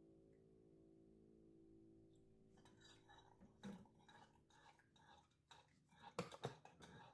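Faint held music chord dying away, then quiet irregular clicks and rustling from something being handled, with two sharper clicks near the end.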